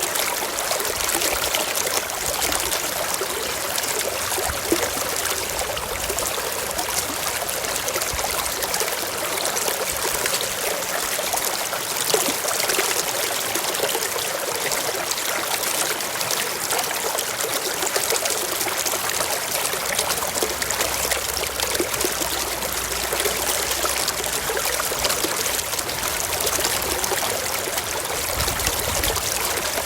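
Stream water running over rocks: a steady, even rush and trickle with no let-up.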